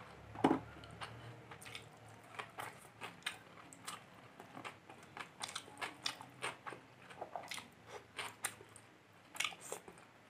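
Close-up chewing and wet mouth smacks of a person eating rice and fish curry by hand, many short irregular clicks a second, with one louder thump about half a second in.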